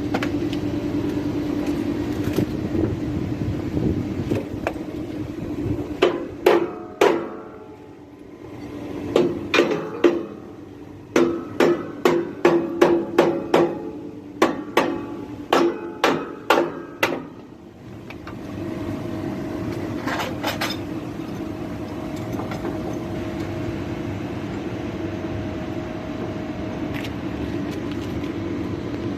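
Hammer blows, about fifteen in short runs, a few seconds into the sound and lasting roughly twelve seconds, over a steady machine hum that continues alone afterwards.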